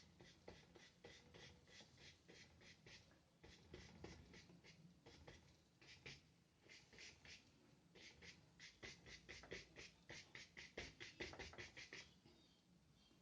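Faint scratchy strokes of a paintbrush with black gouache on paper, short strokes coming in runs, about four a second and closer together in the second half.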